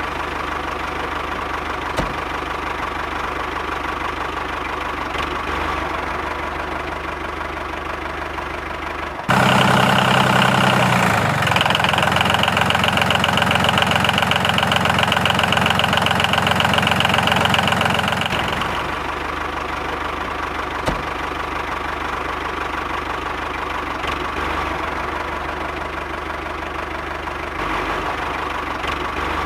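A steady motor drone with a clear hum. About nine seconds in it jumps suddenly louder and higher, then falls back to the earlier drone about nine seconds later.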